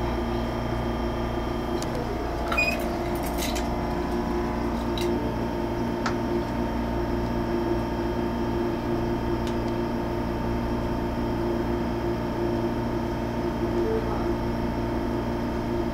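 Steady electrical hum and ventilation drone inside an MTR Airport Express CAF train carriage, with a few faint clicks about three seconds in.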